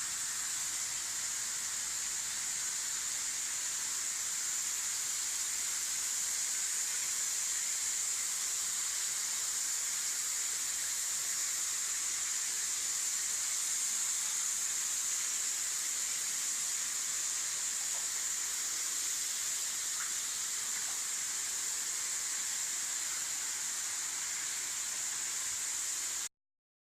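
Steady high-pitched hiss that stays level throughout and cuts off abruptly near the end.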